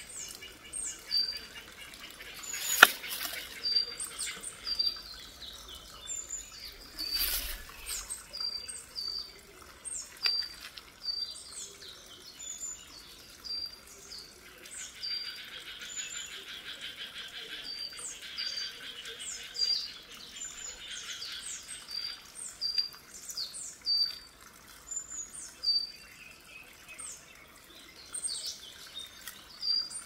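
Small birds chirping repeatedly in short, high, clipped notes. Two sudden sharp noises stand out, about three and seven seconds in; the first is the loudest sound.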